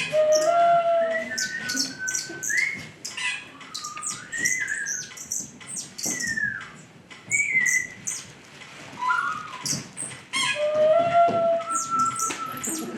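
Bird-like chirps and squawks over a few held whistled tones that slide up and down, quieter for a couple of seconds midway.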